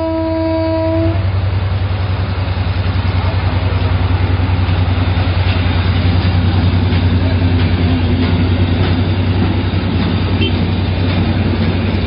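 Passenger train coaches rolling past on the rails with a steady rumble. A short train horn blast lasting about a second sounds right at the start.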